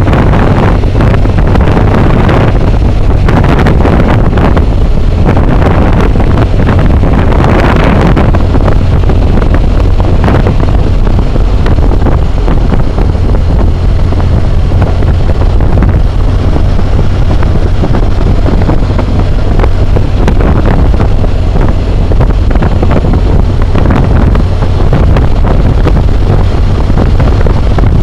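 Wind roaring over a helmet-mounted camera's microphone on a moving BMW motorcycle, loud and steady, with the motorcycle's engine droning low underneath.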